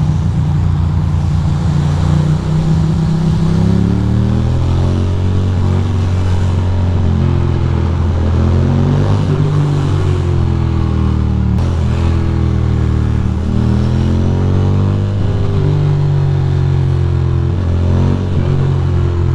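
Ducati Monster 620's air-cooled L-twin engine running under way in traffic, its pitch rising and falling several times as the bike accelerates and eases off.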